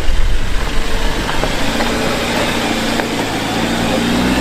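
Car engine sound effect, running at a steady idle with a low rumble. It is rougher at first, then settles into an even drone.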